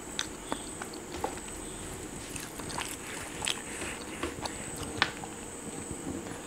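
Close-miked chewing of homemade pizza: soft, irregular mouth clicks and smacks as the crust is bitten and chewed.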